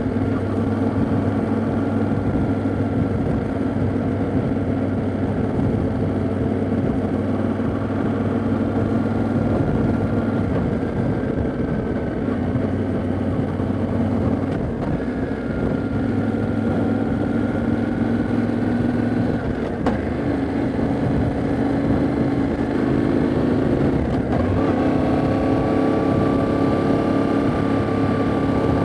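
Yamaha Ténéré 700's 689 cc parallel-twin engine running steadily under way on the road. The engine note breaks briefly about 20 seconds in and steps up to a higher pitch about 24 seconds in.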